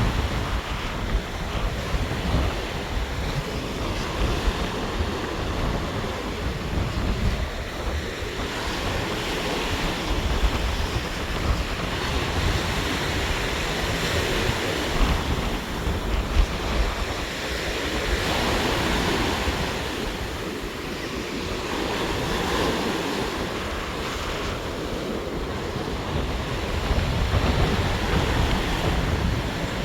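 Rough sea surf washing and breaking continuously, its loudness swelling and easing every few seconds, with squally wind buffeting the microphone in a low rumble.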